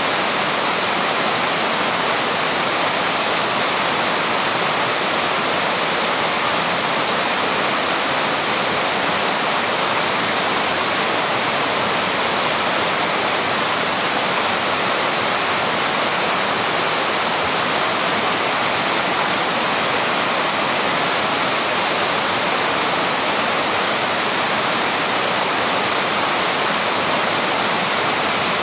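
A small waterfall's water rushing steadily, an even hiss with no change.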